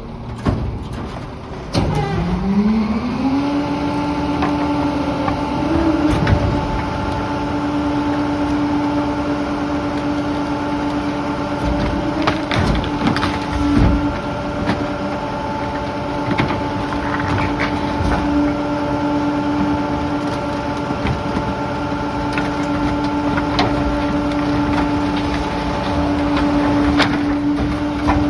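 Garbage truck engine revving up about two seconds in and then holding a steady raised speed, as when the rear loader's hydraulic packer is running, with scattered knocks and clatter from debris.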